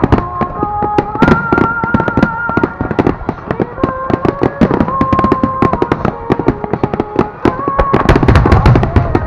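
Fireworks display at full intensity: many rapid shell bursts and crackles overlapping without pause, with a melody of sustained notes from the accompanying music running beneath.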